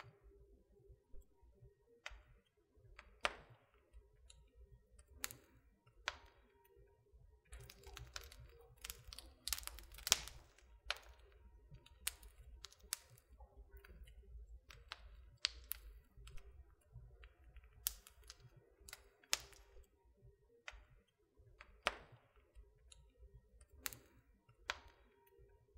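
Wood fire crackling in a fireplace: irregular sharp pops and snaps from the burning logs, busiest around the middle, over a faint low rumble of the flames.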